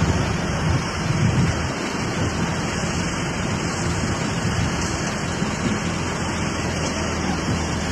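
Jaw crusher running and crushing stone: a steady, dense clatter of broken rock, with a low machine hum underneath.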